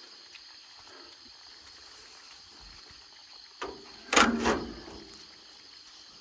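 Crickets chirring steadily in the night background, with a click and then a short loud noise about four seconds in.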